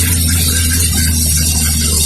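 Motorcycle engine running at a steady speed, a loud, even low drone with high hiss over it.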